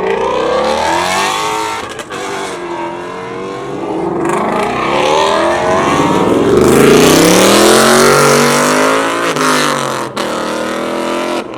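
Performance car engines revving and accelerating hard past, the engine pitch rising and falling repeatedly and loudest around the middle. There are sudden short breaks about two seconds in and near the end.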